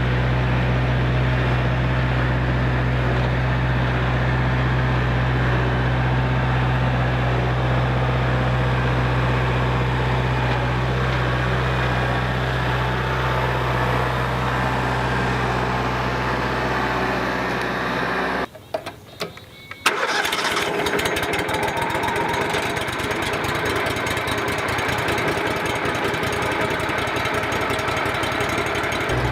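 A steady engine running with a strong low drone. The drone cuts off abruptly about 18 seconds in, and after a short break a rougher, rattling engine sound carries on.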